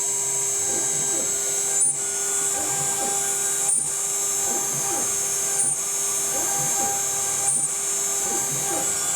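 CNC router running a finishing pass in wood. The spindle whines steadily while the stepper motors sweep the bit back and forth, their pitch rising and falling and the machine reversing about every two seconds. It is taking the full depth in one pass with no roughing pass first, which makes the cut a little rough.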